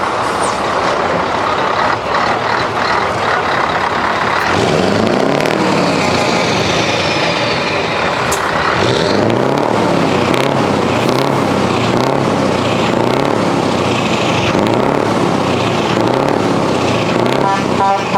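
Heavy truck engines running, with one revved up and down over and over from about four seconds in. A horn starts sounding right at the end.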